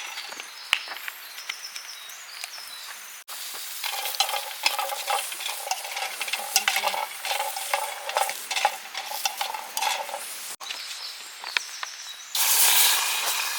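Food sizzling and spitting as it grills, with many small crackles and clicks; the sizzle grows louder about a second before the end.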